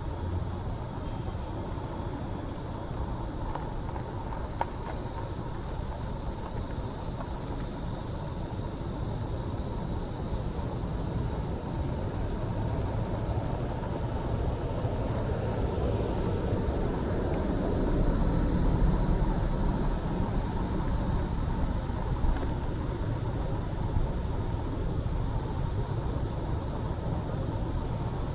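Street traffic noise with a steady low rumble, swelling as a car passes about two-thirds of the way through.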